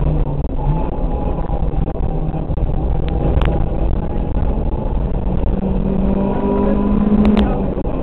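Rally car engine heard onboard, running hard at speed along a special stage, with a brief dip in revs about half a second in and a pitch rising steadily from about five and a half seconds in. A few sharp knocks sound around three and seven seconds in.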